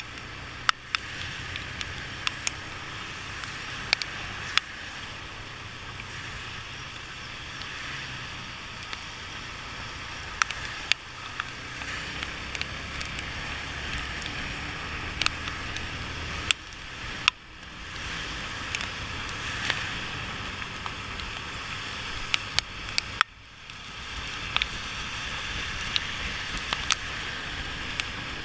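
Steady road and wind noise from a motorcycle ride in the rain, with sharp ticks scattered throughout as raindrops strike near the microphone. Twice the noise briefly dips.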